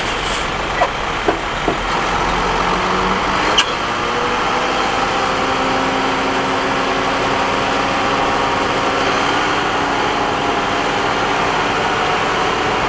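Heavy earthmoving machine's diesel engine running steadily, with a few short knocks in the first few seconds, the sharpest about three and a half seconds in.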